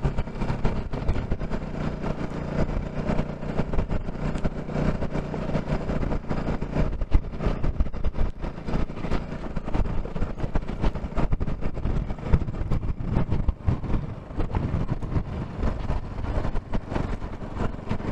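Bajaj Pulsar NS200's single-cylinder engine running as the motorcycle rides on, steady for the first several seconds and more uneven after that, under a rushing noise with frequent short knocks.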